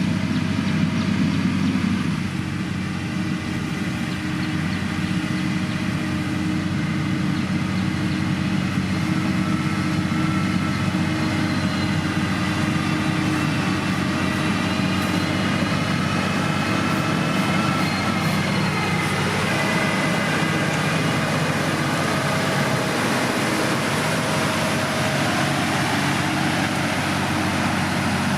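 Diesel engine of heavy road-building machinery running steadily, with a fainter higher whine that drifts in pitch through the middle.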